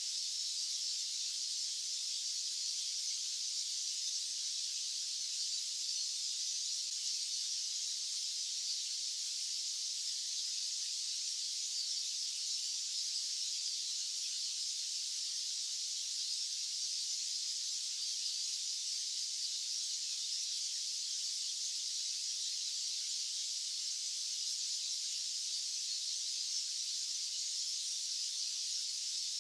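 Steady white-noise hiss that does not change, high-pitched with no low rumble beneath it.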